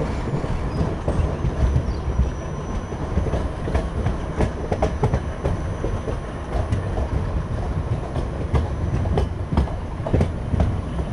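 Indian Railways passenger train (Nagaland Express) rolling slowly out of a station, heard close by from a coach: a steady low rumble of the coaches with irregular clacks and knocks of the wheels on the track.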